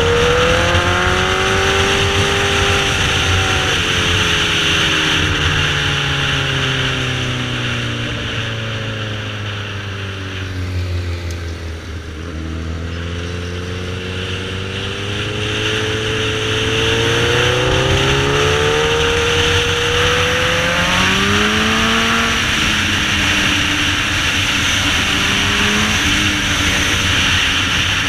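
Sport motorcycle engine heard on board. Its pitch falls slowly for about twelve seconds as the throttle is rolled off and the engine slows the bike into a corner without the brakes, then climbs again as the bike accelerates out, with a couple of short jumps in pitch during the climb. A steady rush of wind runs underneath.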